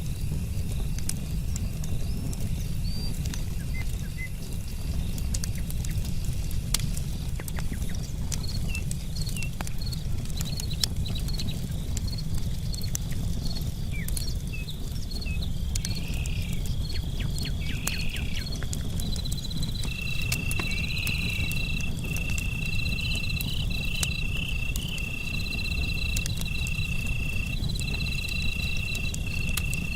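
Campfire crackling, with scattered sharp pops of burning wood. Crickets begin trilling steadily about halfway in, with two short chirping calls shortly before.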